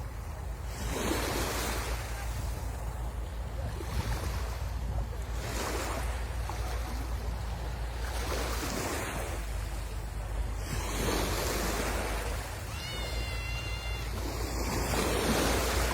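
Sea waves breaking and washing up the shore, swelling in surges every couple of seconds over a steady low wind rumble on the microphone. A brief high-pitched sound rises above the surf about thirteen seconds in.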